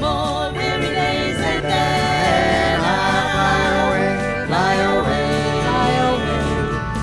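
Live country-gospel music: voices singing with vibrato over acoustic instrument accompaniment.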